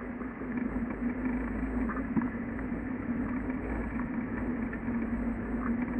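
1974 Ford Pinto's four-cylinder engine running steadily at low revs, heard inside the cabin, with a light knock about two seconds in.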